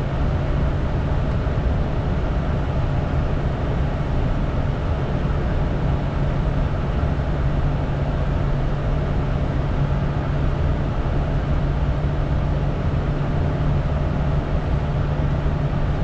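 Steady in-flight noise inside a Bombardier Challenger 350 in its climb: a constant rush of air with a low, even engine hum underneath, holding level throughout.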